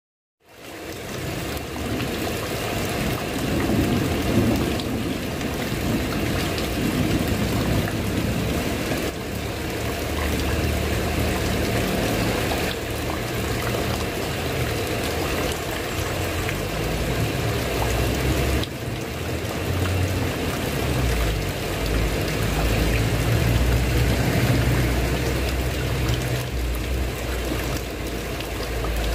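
Steady rain falling on a tiled roof, fading in at the very start, with a deep, uneven low rumble underneath that grows stronger through the second half.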